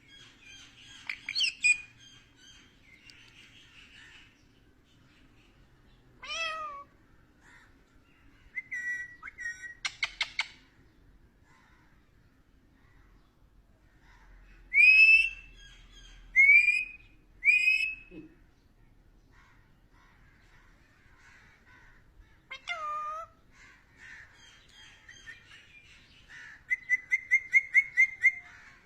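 Indian ringneck parakeet calling in scattered bursts with pauses between: short whistles, a few sharp rising whistles, and two falling meow-like calls. Near the end comes a fast run of short repeated chirps.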